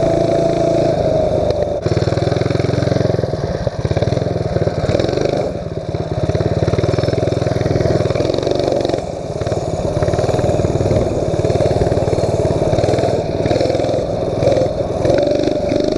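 Mini bike engine running steadily under way, easing off briefly a few times.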